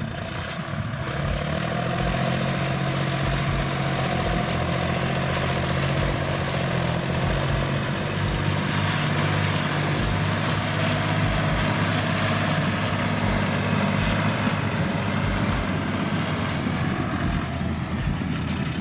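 Tractor's heavy diesel engine running steadily, its low engine note wavering slightly in pitch, with irregular low thuds underneath.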